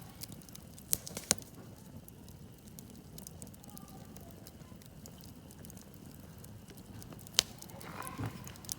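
Wood campfire burning and crackling, with a few sharp pops from the burning wood, the loudest about a second in and again near the end.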